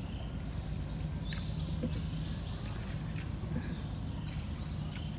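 A bird calling a quick run of about six short, high chirping notes a little past the middle, over a steady low hum.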